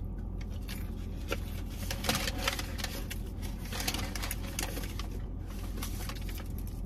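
Close-up chewing of crunchy breaded chicken nuggets: a run of crisp crunches and mouth clicks, busiest about two and four seconds in.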